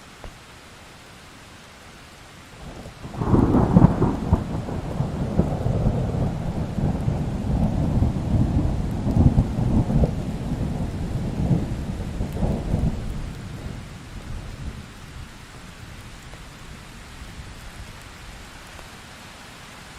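Steady rain hiss, with a thunderclap about three seconds in that rolls on for some ten seconds with several loud peaks before dying away, leaving the rain.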